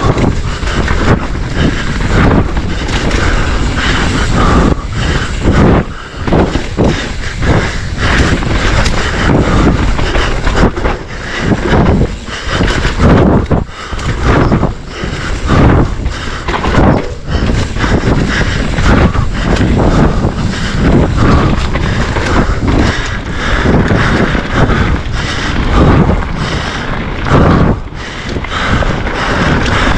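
Trail noise from a Specialized Enduro mountain bike descending at speed. Tyres rumble on dirt and the bike rattles and knocks irregularly over roots and bumps, with wind rushing over the camera microphone.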